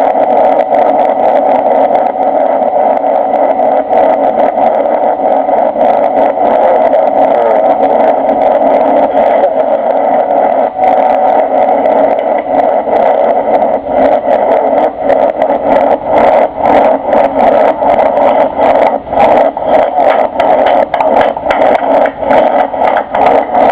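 Cabin noise in a Boeing 747-300 on its landing: a loud, steady rush of engine and airflow noise, with frequent short knocks and rattles that come more often from about halfway through.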